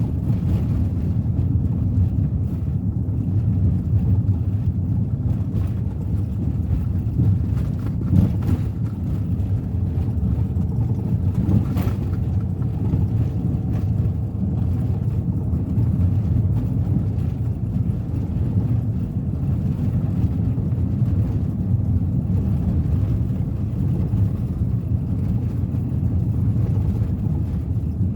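Steady low rumble of road and engine noise from a Suzuki Ertiga 1.4 with a manual gearbox, driving at an even pace with no gear changes or revving.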